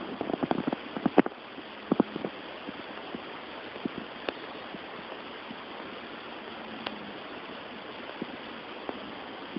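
Steady hiss of outdoor background noise, with a quick run of clicks and knocks in the first second and a half and a few faint ticks after.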